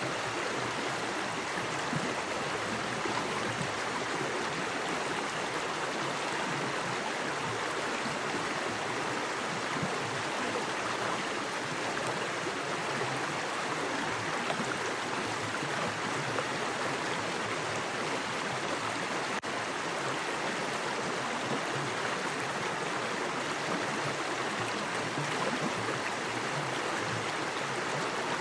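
Small forest creek with fast water flowing over rocks, a steady, even rushing.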